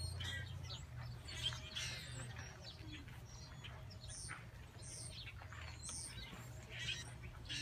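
Small birds chirping: scattered short, high calls, some sweeping up or down, over a steady low hum.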